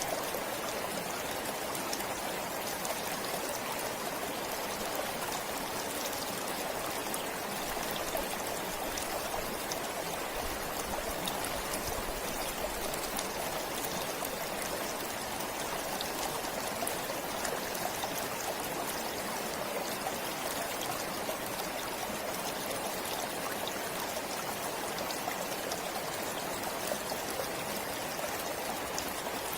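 A forest stream flowing steadily, a continuous rushing and trickling of water.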